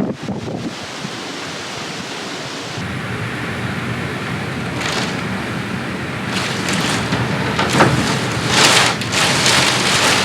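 Hurricane wind and heavy rain: a steady rush of noise, with several louder gusts surging through in the second half.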